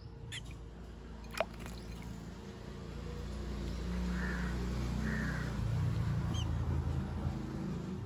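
Garden birds calling: two harsh calls about a second apart midway, and a few short high chirps near the start and near the end. A single sharp click comes about a second and a half in, and a low rumble builds through the second half.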